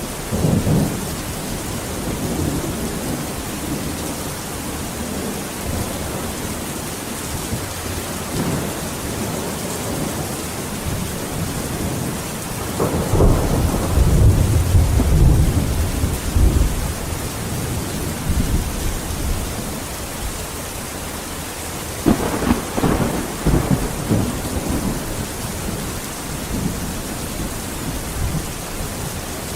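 Steady heavy rain with thunder: a long low rumble of thunder rolls from about 13 s in, and a sharper thunderclap breaks about 22 s in and rumbles on for a couple of seconds.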